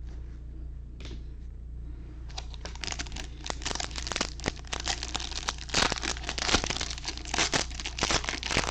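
A sealed pack of baseball trading cards being torn open, its plastic wrapper crinkling and tearing in quick dense crackles that start about two seconds in and are loudest near the end, over a steady low hum.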